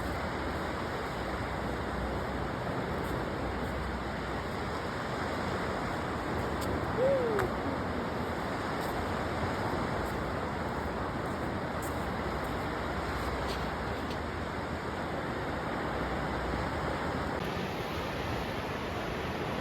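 Steady rushing noise of sea wind and surf, with one short falling tone about seven seconds in.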